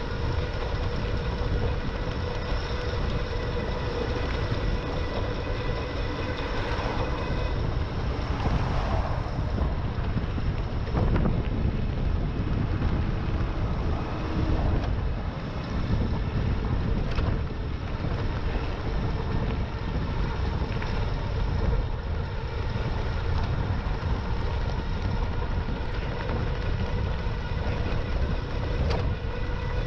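Wind rushing over the camera microphone while riding an e-bike, with a steady whine from the bike's electric motor underneath and a few light clicks.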